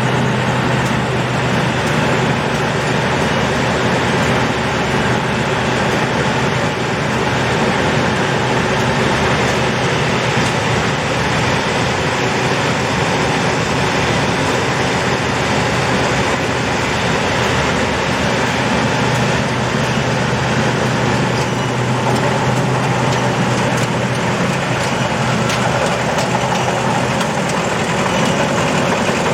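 Combine harvester running steadily in the rice field, a loud, even engine drone that does not change.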